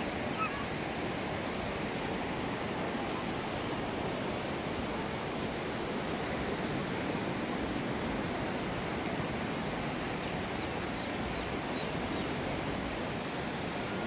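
Ocean surf washing onto the beach, a steady, even rush of water noise.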